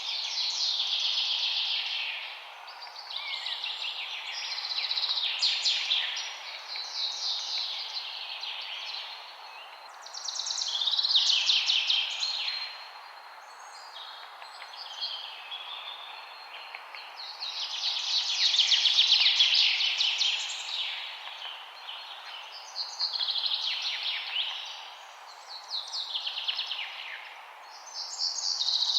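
Songbirds singing: phrases of rapid, high chirping notes that sweep down in pitch, one every two to four seconds, over a steady background hiss.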